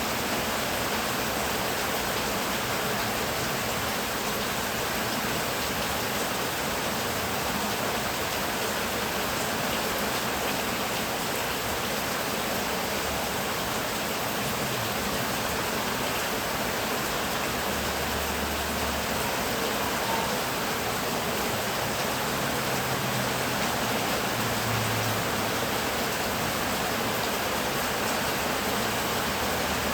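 Heavy rain falling steadily, an even hiss without pauses or distinct bursts.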